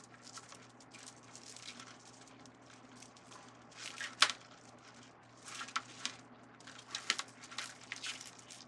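Plastic deco mesh rustling and crinkling as it is handled and pushed into a wreath, in scattered short bursts with a sharp click about four seconds in.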